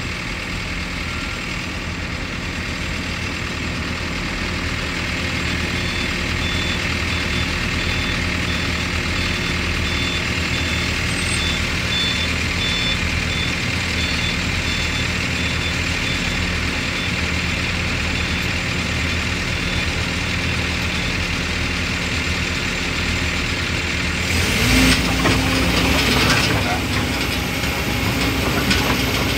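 Excavator's diesel engine running steadily, then revving higher and louder about 25 seconds in.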